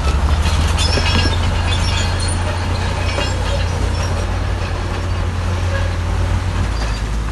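Crawler bulldozer's diesel engine running under load with a steady low drone, its steel tracks clanking and squealing in short, irregular bursts over it.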